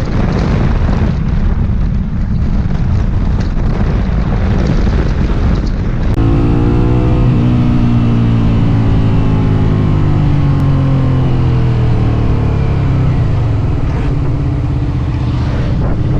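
Rushing wind and road noise, then from about six seconds in a vehicle engine running, its pitch slowly falling and then climbing again near the end.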